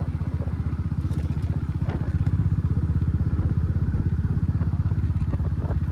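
Motorcycle engine running steadily on the move, a low, rapid, even pulsing.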